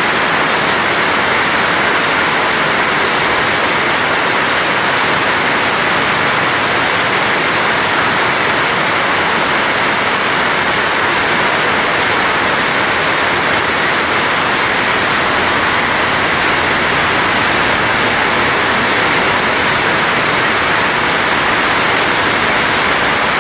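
Heavy rain pouring down, a loud, steady hiss that never lets up.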